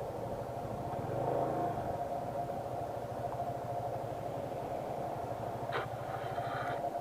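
Motorcycle engine running at a steady pace on the road. There is a short high-pitched tone near the end.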